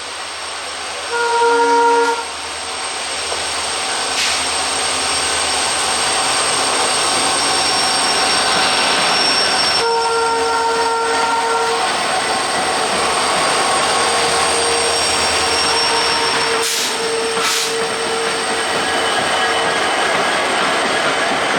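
A passenger train running with a steady rumbling rush. The locomotive horn sounds twice, briefly about a second in and again for about two seconds around ten seconds in. A long steady whine is heard later, with a couple of sharp clicks near the end.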